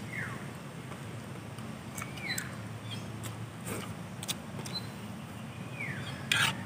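A bird repeatedly giving a short, falling chirp, a few seconds apart, with scattered light clicks and a louder clatter near the end over a low steady hum.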